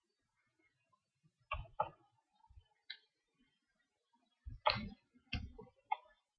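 Faint computer mouse clicks: a quick pair about one and a half seconds in, then a few more near the end.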